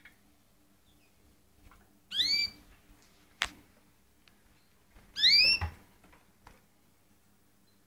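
Canary giving two short, loud calls about three seconds apart, each an arched note that rises then falls, with a single sharp click between them. A faint steady hum runs underneath.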